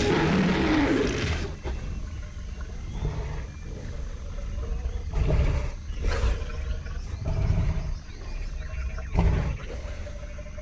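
Sound-designed dinosaur vocalisations: a loud roar opens, followed by a series of shorter calls and growls every second or two, over a steady low rumble.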